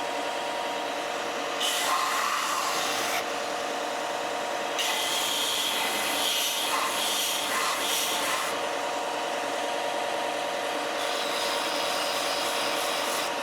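Belt sander running steadily while a hickory spatula blank is pressed against the belt three times: about two seconds in, from about five to eight and a half seconds, and again near the end. Each contact adds a hiss of abrasive on wood over the motor's hum.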